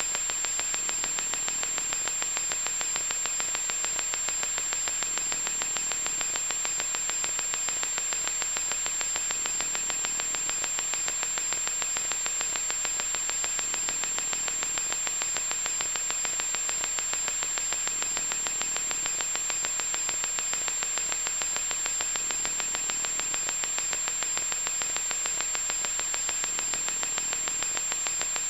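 Loud electronic static: a steady, unbroken hiss weighted toward the high end, with a thin high-pitched whine running through it.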